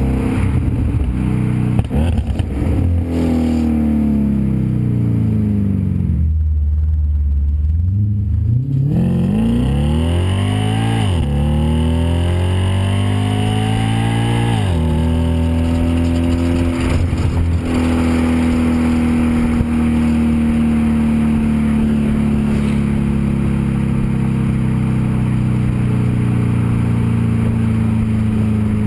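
Audi S5's engine through its STaSIS cat-back exhaust while driving. The revs fall over the first few seconds and hold low. They then rise twice under acceleration and drop sharply at a gear change about halfway through. After that the car cruises with revs easing slowly downward.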